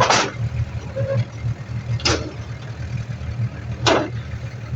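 Heavy diesel earthmoving machine running with a steady, pulsing low rumble, with three short bursts of noise over it: near the start, about two seconds in and about four seconds in.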